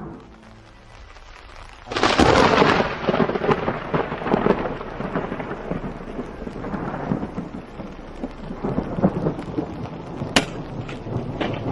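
Thunder in a rainstorm: after a quieter start, a sudden loud clap about two seconds in rolls on as a long, uneven rumble, with another sharp crack near the end. Rain hisses underneath.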